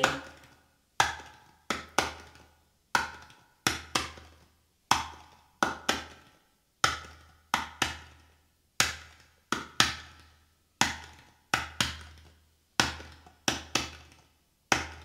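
Hawaiian ipu gourd drum beating the hula rhythm on its own between chanted verses: one strike, then two quicker strikes, the three-beat pattern repeating about every two seconds.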